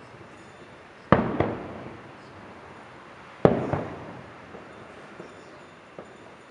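Aerial fireworks shells bursting with sharp booms that echo away. There are two main bursts, about one second in and again about three and a half seconds in, each followed a fraction of a second later by a second report, and a faint pop near the end.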